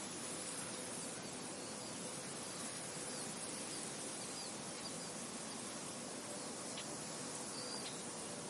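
Soft wind blowing steadily across a field, an even hiss, with faint short high bird chirps scattered through it, a few more near the end.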